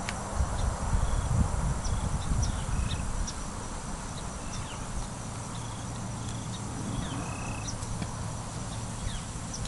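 Open-field ambience: scattered short high chirps throughout, over a low rumble that is stronger in the first few seconds.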